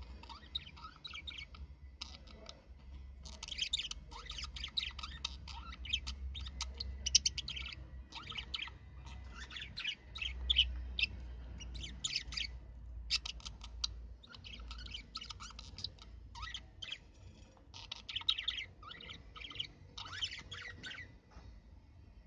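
Budgerigars chattering, with rapid runs of short, high chirps and squawks broken by brief pauses.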